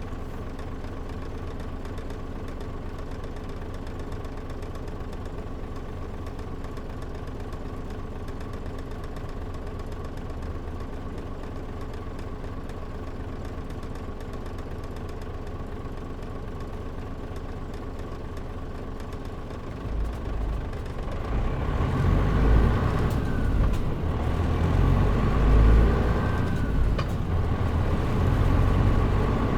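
Mitsubishi Fuso Aero Star city bus's turbo diesel engine (KL-MP37JM) idling steadily for about twenty seconds, heard from inside the cabin. Then it pulls away and the engine runs louder with a deep rumble as the bus accelerates.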